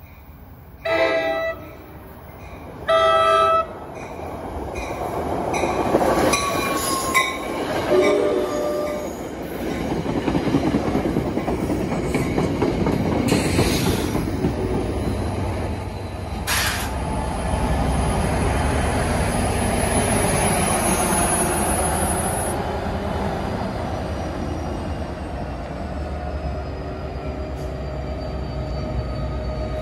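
NJ Transit commuter train sounding two horn blasts about a second and three seconds in, then rolling into the station with a swelling rumble of wheels on rail and brief high wheel squeals.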